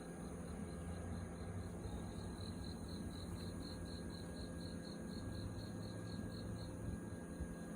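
An insect chirping: a high, thin note repeated about four times a second, starting about two seconds in and stopping shortly before the end, over a steady background hum.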